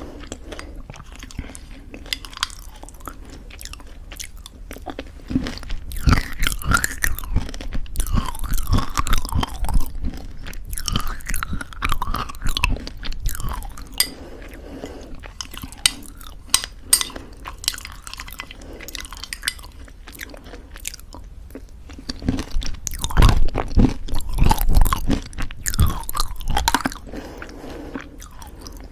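Close-miked chewing of homemade granola in thick yogurt: dense crunching and crackling in two long spells, with softer mouth sounds between them.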